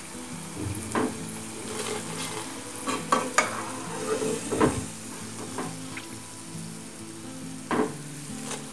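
Cauliflower 65 pieces sizzling steadily in hot oil as they deep-fry, with several sharp clinks and scrapes of a steel slotted spatula as the pieces are scooped out.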